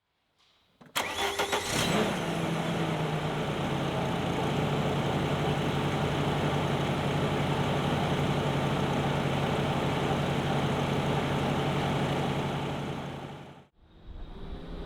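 LPG-fuelled Volkswagen engine of a Jungheinrich TFG 320s forklift starting: a brief spell of starter cranking, catching about two seconds in, then idling steadily. The sound stops abruptly about a second before the end.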